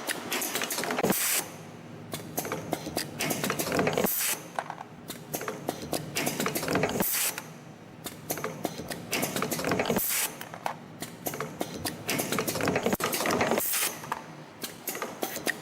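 YHM LE-210-W CNC extension spring machine running in production, coiling 1.0 mm wire and forming German hooks: rapid mechanical clicking and clatter with a hiss. The run repeats about every three seconds, each spring cycle marked by a brief loud burst.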